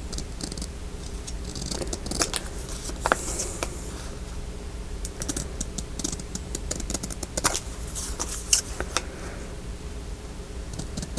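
Paper and craft pieces being handled on a table: rustling with irregular light clicks and taps. A steady low hum runs underneath.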